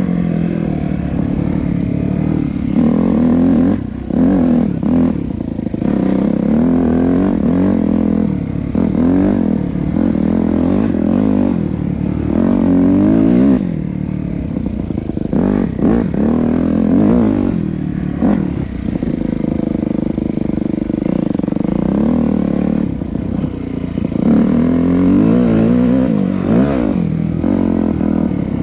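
Yamaha YZ250F dirt bike's 250 cc four-stroke single-cylinder engine being ridden hard, its pitch rising and falling again and again as the throttle is opened and closed.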